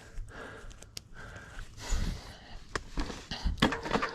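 A mountain biker's heavy breathing while riding, with sharp clicks and knocks from the bike over the trail in the second half.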